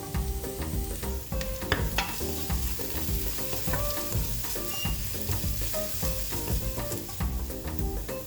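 Food sizzling in a hot pan while it is stirred, with scattered clicks of a utensil against the pan, over light instrumental background music.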